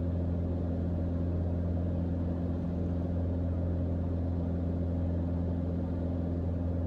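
Mooney M20J's four-cylinder Lycoming engine and propeller running steadily, heard inside the cockpit as an even, low drone.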